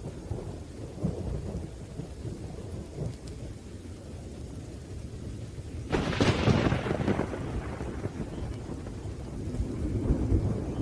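Thunderstorm: low rolling thunder rumbles under steady rain. A sharp thunderclap comes about six seconds in and fades over a second or two, and the rumbling swells again near the end.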